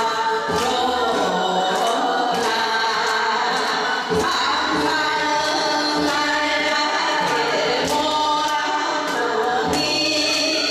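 Korean folk song sung by voices over music, with percussion struck at a regular beat.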